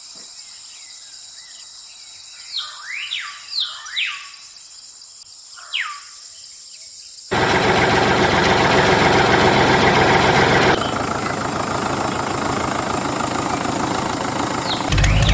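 Birds chirping over a steady high insect hum. About halfway through, a loud, rough mechanical running noise from a small motor starts suddenly and carries on, changing tone twice.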